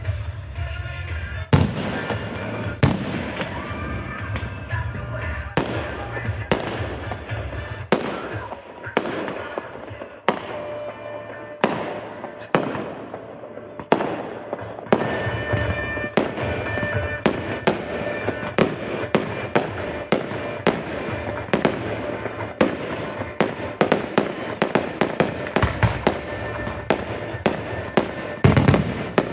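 Aerial fireworks bursting in a long string of sharp bangs, about one a second at first, then coming faster, several a second, through the second half, with a dense volley near the end.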